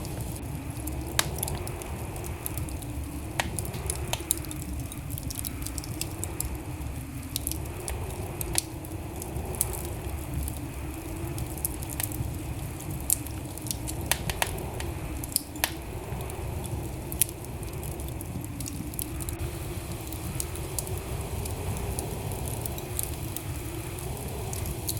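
Fireplace fire crackling, with sharp pops at irregular moments over a steady low rumble of the flames.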